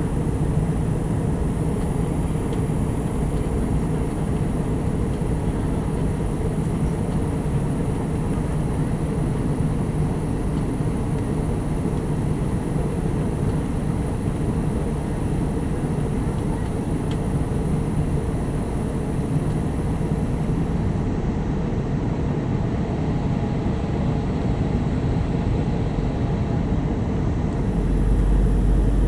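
Steady low roar of an airliner in cruise flight, heard inside the passenger cabin, with a faint constant hum. A deeper rumble swells near the end.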